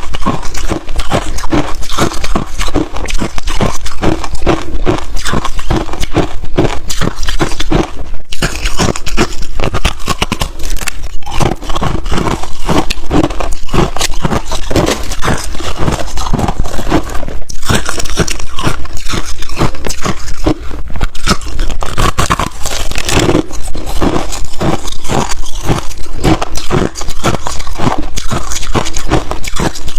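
Ice being bitten and chewed right at the microphone: loud, continuous crunching, with a couple of brief pauses.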